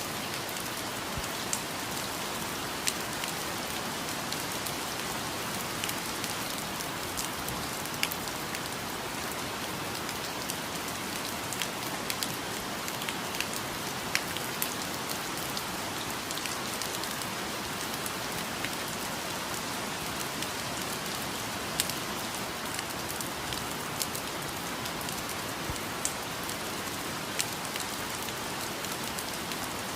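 Steady rainfall: an even hiss of rain with scattered louder single drops striking close by.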